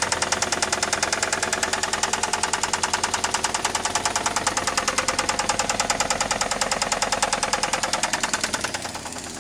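1999 Saturn SL2's 1.9 L twin-cam four-cylinder engine running with a loud, rhythmic knock of about ten strokes a second, which the owner takes for rod knock. The knocking drops in level near the end.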